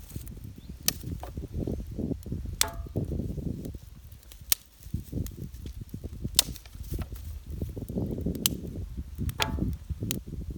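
Sharp clicks and knocks about every second or two, two of them with a short metallic ring, over a steady low rumble.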